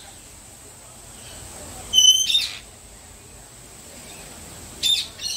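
Birds calling: a loud burst of short calls with falling pitch about two seconds in, and another starting near the end.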